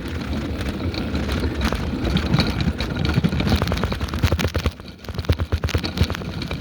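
Riding noise from a bicycle on the move: a steady low rumble of wind on the microphone, with many short rattles and knocks. It dips briefly about five seconds in.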